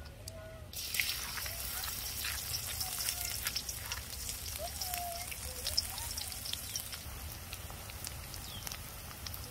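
Food sizzling in hot oil, with a steady hiss and many small crackles that start abruptly about a second in, as when ingredients hit a hot wok.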